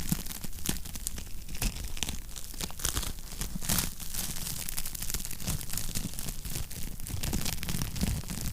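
Wood fire burning in a fireplace, crackling steadily with frequent sharp pops over a low rumble of flame.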